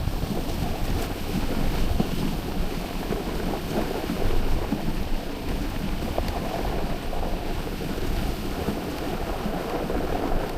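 Steady rushing, buffeting wind noise on the microphone, heaviest in the low end, with no distinct tones or rhythm.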